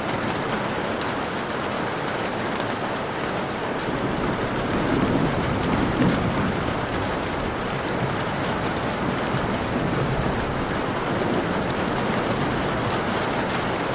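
Steady rain falling on a window, an even hiss flecked with fine drop ticks. A low rumble swells and fades between about four and seven seconds in.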